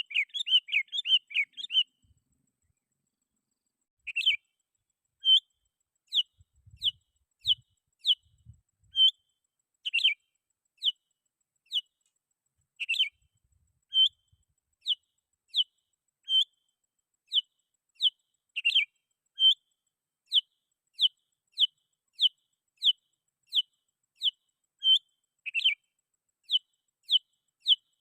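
Sooty-headed bulbul (kutilang) calling. A quick chattering run of notes lasts about two seconds. After a short pause it gives a long series of sharp single chirps, about one or two a second.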